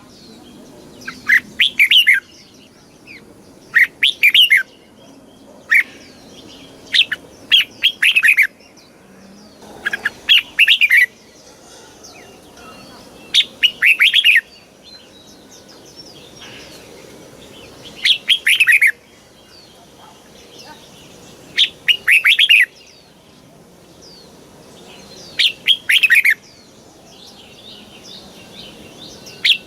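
Red-whiskered bulbul singing short, loud, warbling song phrases, one about every three or four seconds, with softer chirps in between.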